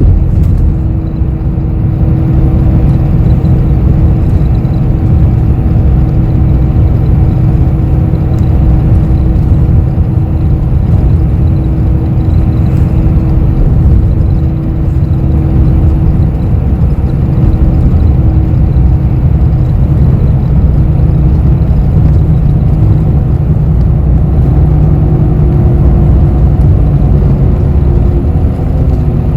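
Inside a moving city bus: a steady low rumble of engine and road noise, with a hum that fades partway through and a few tones that slide down in pitch near the end.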